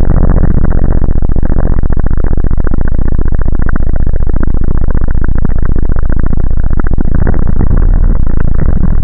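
Jet ski engine running loud and steady, the recording overloaded near full scale.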